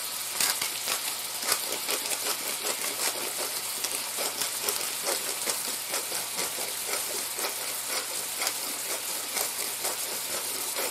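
Squid pieces frying in oil in a pan: a steady sizzle with many small crackles and pops, several a second.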